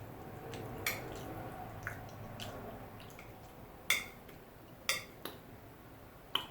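Close-miked eating sounds: soft wet chewing and mouth noises, broken by several sharp clicks like a utensil tapping a dish.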